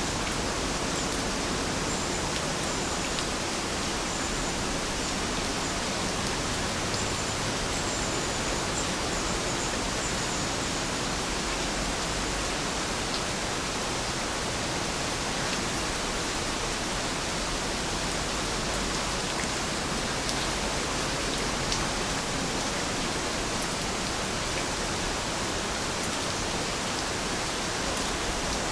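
Heavy rain falling steadily, a dense even hiss with no let-up. A few faint high chirps sound in the first ten seconds or so.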